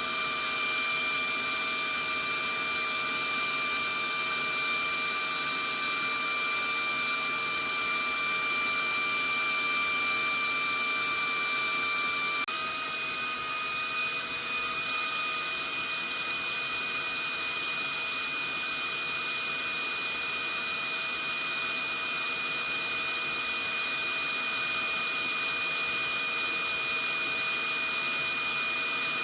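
Vacuum cleaner running steadily: a constant motor whine over a airy hiss. About twelve seconds in, the whine jumps slightly higher and the sound gets a little louder.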